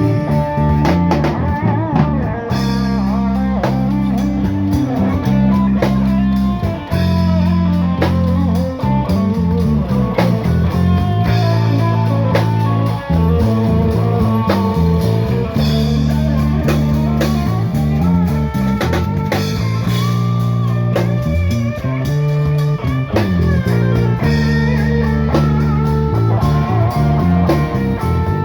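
A busking band playing an instrumental passage. Guitar plays over sustained bass notes that change every second or two, with steady drum-kit beats, and there is no singing.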